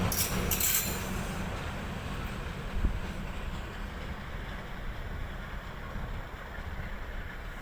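Departing passenger train, its low rumble fading as it moves away, with a few sharp clicks in the first second.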